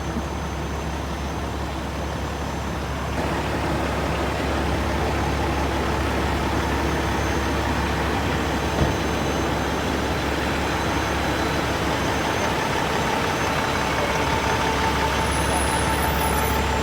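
Heavy truck engine running steadily with road noise. It gets a little louder about three seconds in, with a single short knock near the middle.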